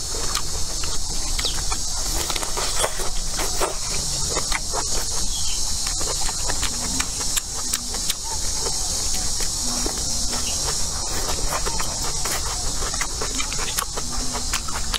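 Close-up chewing of food, with frequent wet mouth clicks and smacks, over a steady high-pitched drone of insects.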